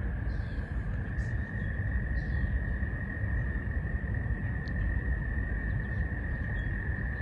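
Frog chorus: a continuous, steady, high-pitched trill, with short bird chirps repeating about once a second above it and a constant low rumble underneath.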